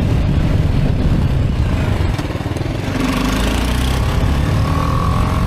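Motorcycle engine running under way, with a broad rush of wind and road noise.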